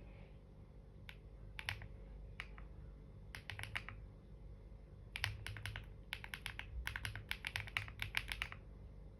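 Typing on a computer keyboard: a few scattered keystrokes, then short runs of taps that turn into a quick, steady run of typing in the second half.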